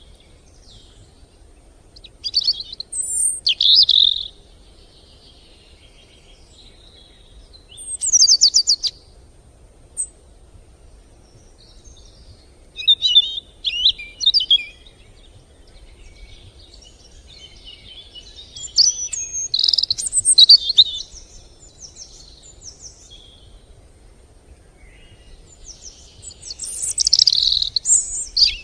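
Songbirds singing: about six bursts of quick, high chirping and trilled phrases, each lasting a second or two, with pauses of a few seconds between them, over a faint steady background hiss.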